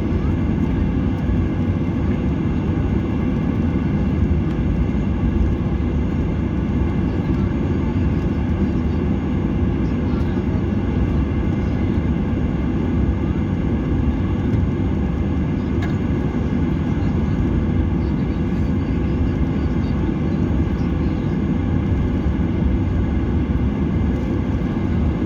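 Airliner jet engines heard from inside the passenger cabin during takeoff: a steady low rumble with faint steady whining tones above it.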